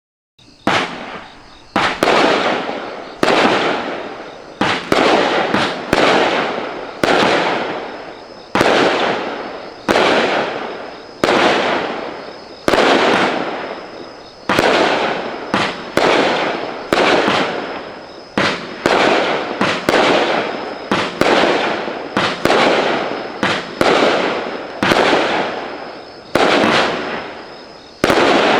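A 200-gram consumer firework cake firing shot after shot: about twenty sudden bursts at a steady pace of roughly one every 1.4 seconds, each fading away over about a second before the next.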